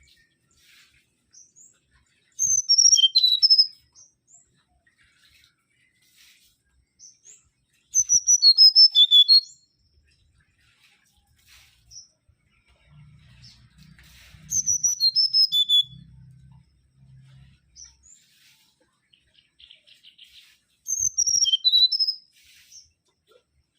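Mangrove whistler singing: four loud phrases of quick, clear whistled notes, each about a second and a half long and stepping down in pitch, repeated about every six seconds. A faint low hum sits under the third phrase.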